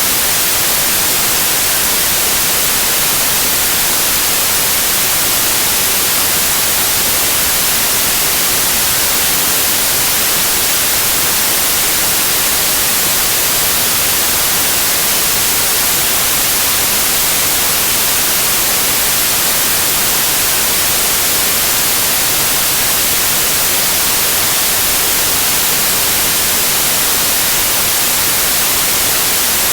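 Steady white noise in the manner of TV static: an even hiss, strongest in the high end, that does not change.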